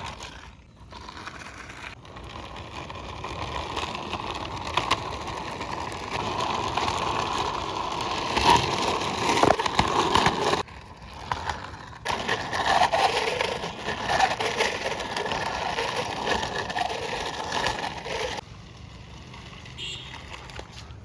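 Small plastic wheels of a hand-pushed toy car rolling and scraping along a rough wall top, an uneven gritty rumble that stops briefly about eleven seconds in and eases near the end.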